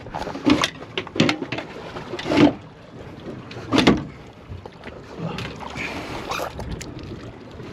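Irregular knocks and splashes aboard a small boat, over a steady wash of water, with two louder hits about two and a half and four seconds in.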